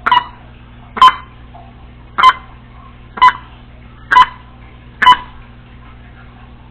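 Congo African grey parrot making a series of six short, sharp beep-like clicks, about one a second, stopping after about five seconds.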